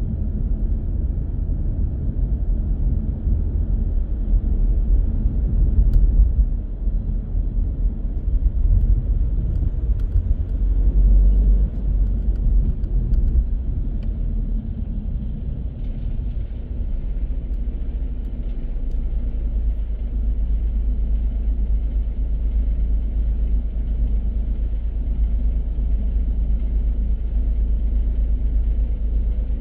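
A car's low rumble of engine and tyres while driving, heavier and more uneven in the first half, then settling into a steadier, lower drone.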